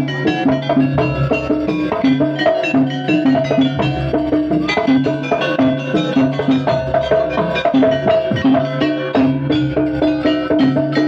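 Jaranan gamelan music: struck metal gong-chimes and drums play a steady repeating rhythmic pattern.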